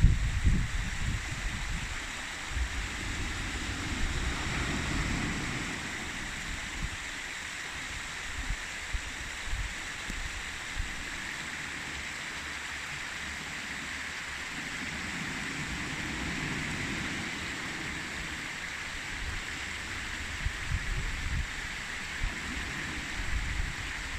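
Wind buffeting the microphone in uneven gusts, low rumbles at the start, a few seconds in, again in the middle and near the end, over a steady rushing hiss.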